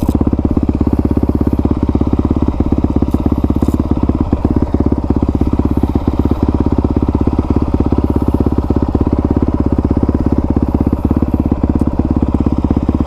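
Honda CRF450R's 450 cc single-cylinder four-stroke engine with an aftermarket exhaust, idling steadily at an even pitch with rapid, regular firing pulses.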